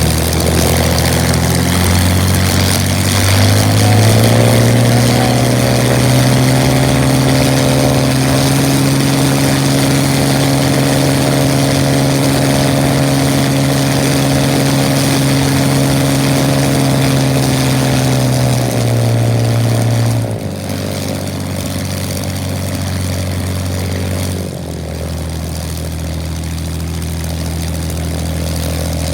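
Spitfire's V12 piston engine and propeller running. The engine is run up about 3 seconds in and held at a high, steady pitch. Around 19 to 20 seconds in it is throttled back, drops again a few seconds later, and then slowly picks up.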